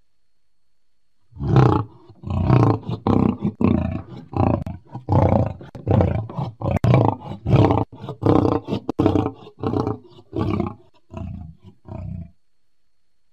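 Lion roaring: a rapid series of short, deep calls at about two a second, starting about a second and a half in and growing shorter and weaker until they stop near the end.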